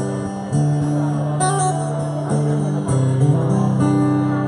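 Guitar strumming chords live, a new chord struck about every second: the introduction to the next song, before the vocals come in.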